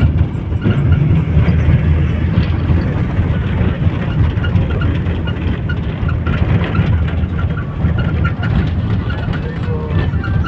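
Mercedes-Benz LO 915 Neobus bus's diesel engine running, a steady low drone with faint light rattles over it.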